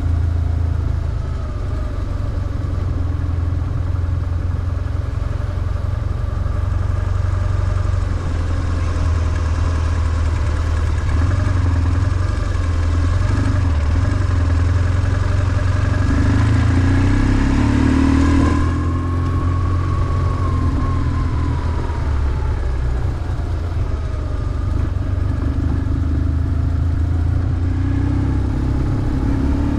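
BMW R1150GS's flat-twin boxer engine running under way. Its pitch climbs as the rider opens the throttle about two-thirds of the way in, falls back as it eases off, and rises again near the end.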